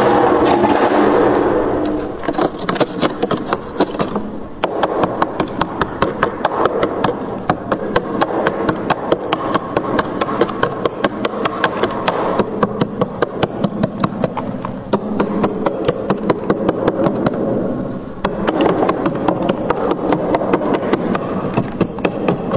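Freezer frost being scraped in quick repeated strokes, several a second, over a steady low hum. A louder, rougher stretch of scraping comes in the first two seconds.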